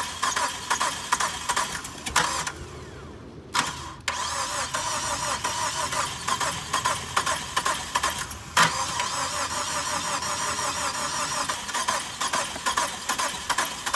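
Starter cranking the 2005 Chrysler PT Cruiser's turbocharged four-cylinder engine over and over without it catching: a no-start. The cranking breaks off briefly about two and a half seconds in, then resumes after a sharp click, with another sharp click about eight and a half seconds in.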